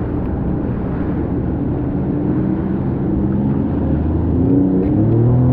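Jet ski engine running over wind and water noise. Near the end its pitch climbs and it gets louder as it revs up, then it holds the higher speed.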